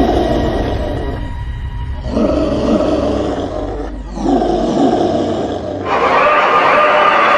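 Animal roar sound effects, several in a row over a steady low rumble; the last, from about six seconds in, is louder and higher-pitched.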